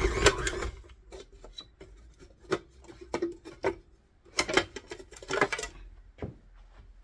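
Background music ending in the first second, then scattered light knocks and clinks of kitchen utensils and bowls being handled.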